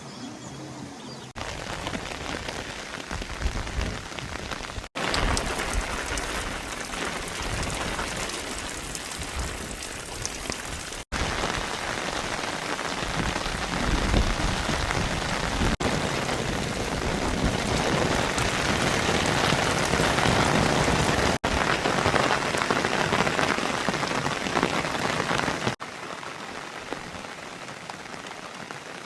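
Heavy rain falling in a steady hiss, heard across several edited shots that cut in abruptly; it is loudest through the middle and softer near the start and end.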